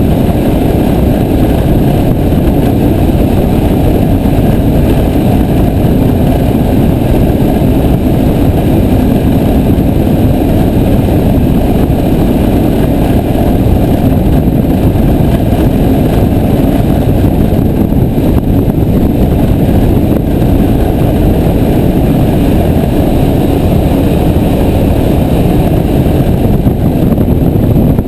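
Piper J3 Cub's engine and propeller running steadily and loudly in flight, a constant drone with no change in speed.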